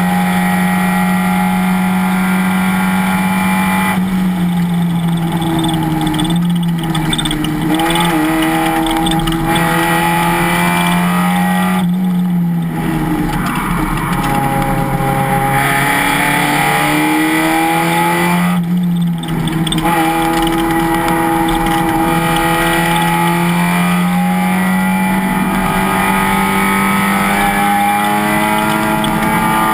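Race car engine running hard at high revs, its pitch rising and falling, with brief breaks in the sound about 4, 12 and 19 seconds in.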